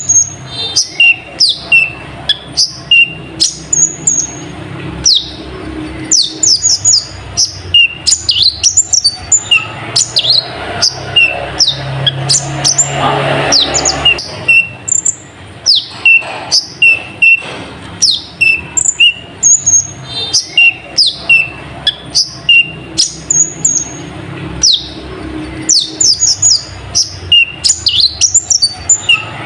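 A kolibri ninja sunbird singing a fast, unbroken run of high, thin chirps and quick downward-sweeping notes, a song filled in with phrases learned from a nightjar (cabak).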